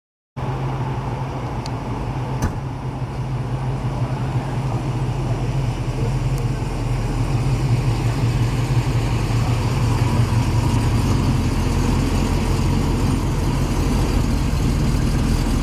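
A motor vehicle's engine running steadily with a low rumble, slowly growing louder.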